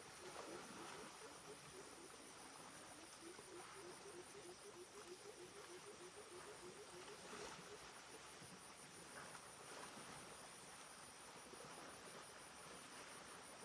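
Insects trilling steadily in a high, pulsing chorus. Over the first half comes a fast run of low hooting notes that falls slightly in pitch.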